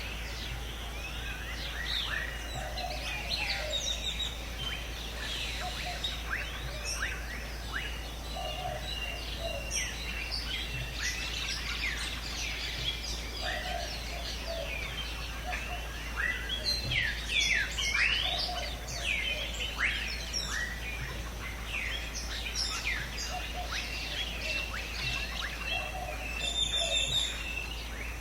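Dense chorus of many birds chirping and calling at once, quick overlapping calls without pause, with a short lower call repeating every few seconds underneath.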